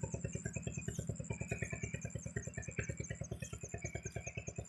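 Single-cylinder engine running steadily, with an even beat of about ten thumps a second.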